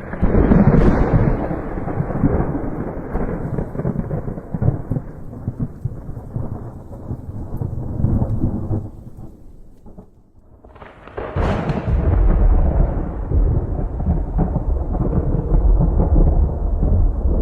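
Two thunderclaps. A sharp crack at the start rolls into a long rumble that fades over about ten seconds. A second crack about eleven seconds in breaks into a deep, sustained rumble.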